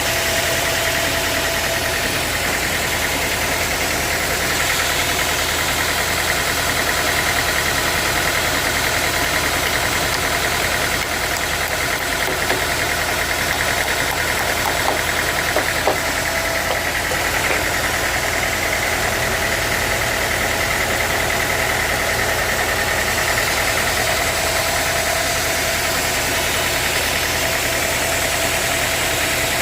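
Sawmill machinery running steadily: a constant mechanical drone with a high, even whine, and a few light clicks near the middle.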